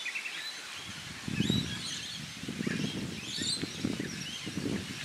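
Birds chirping and warbling in the surrounding trees, with irregular low gusts of wind on the microphone starting about a second in.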